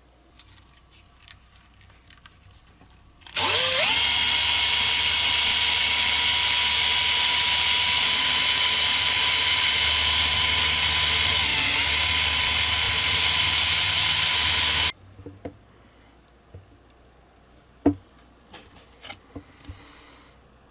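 A small high-speed electric power tool spins up about three seconds in and runs at a steady high whine for about eleven seconds. Its pitch dips briefly near the end, then it cuts off suddenly. Light clicks and knocks come before and after.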